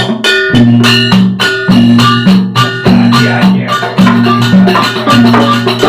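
Sasak wayang gamelan ensemble playing a gending: drums and struck metal percussion in a steady, driving rhythm of about two to three strokes a second, over sustained low pitched notes.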